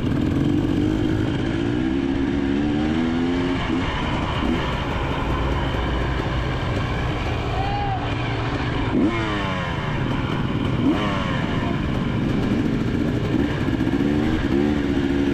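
Two-stroke motocross bike's engine being ridden hard, its pitch sweeping up and down repeatedly with throttle and gear changes, with a few sharp rises in pitch partway through.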